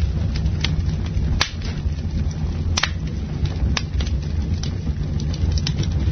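Campfire burning with a steady low rumble and scattered crackles, with several sharp wood pops about a second and a half, three and four seconds in.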